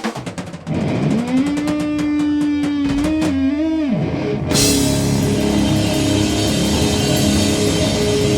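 Doom metal band playing: a single held guitar note with bends, then drums, cymbals and guitars crash in together about halfway through and keep ringing on.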